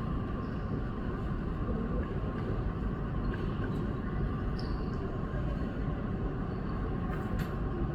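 Steady rumble and air hiss inside an Airbus A330-300 passenger cabin, with a faint click near the end.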